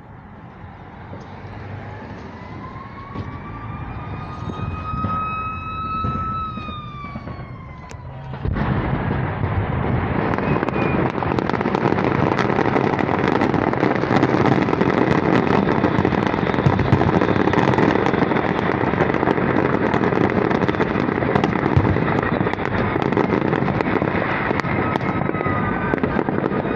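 An emergency-vehicle siren wails, rising and then falling in pitch. About eight seconds in, a large store of fireworks caught in a building fire ignites, with a sudden onset of loud, dense crackling and popping that keeps going.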